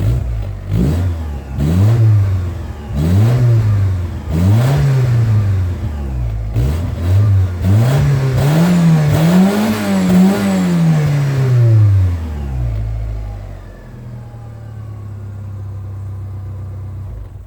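2001 Chevrolet Vectra 2.2 16v four-cylinder engine on its original exhaust, revved while standing: a series of throttle blips rising and falling from idle, then a quicker run of blips that climbs higher before dropping back. It settles to a steady idle about 12 seconds in.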